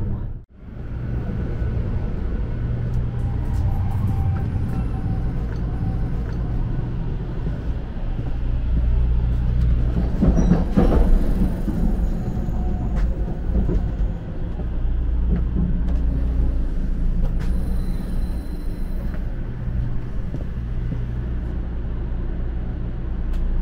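Steady low rumble and hum of a 500 series Shinkansen bullet train running, heard from inside a passenger car. The noise swells for about a second around the middle.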